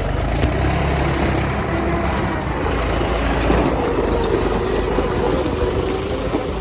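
Mahindra 575 tractor's diesel engine running steadily under load, with mechanical clatter, while it drags a land-levelling scraper. A heavy low rumble is strongest for the first two seconds or so.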